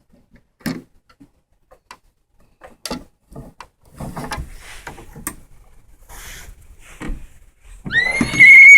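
Light clicks, knocks and rubbing as plastic model horses and toy barn pieces are handled. Near the end a loud, high horse whinny starts, holds and then falls in pitch.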